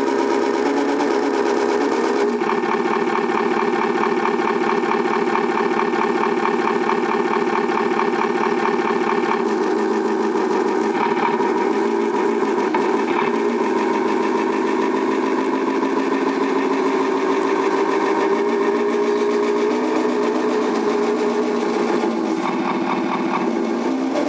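Simulated big-rig diesel engine sound from a Turbo9 sound kit, played through the small speaker in a 1/14-scale Tamiya Knight Hauler RC truck. It runs continuously, thin with no deep bass, and its pitch steps up and down several times.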